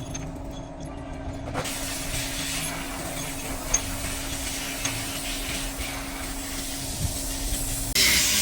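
Hiss of a pressurised jet over a steady motor hum. The hiss starts about a second and a half in and grows louder near the end.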